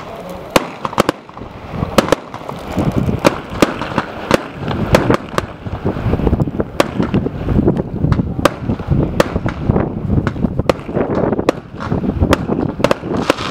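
Fireworks display: many sharp bangs at irregular intervals, about one or two a second, over a continuous low rumble.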